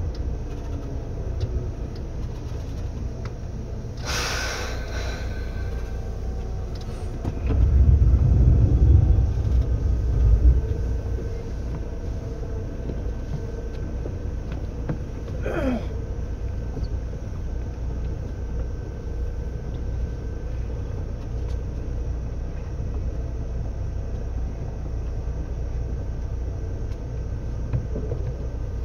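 Seibu 2000 series electric train heard from inside the car while running: a steady low rumble. About four seconds in there is a short burst of noise, a louder rumble swells from about seven to ten seconds, and a brief falling squeal comes around fifteen seconds.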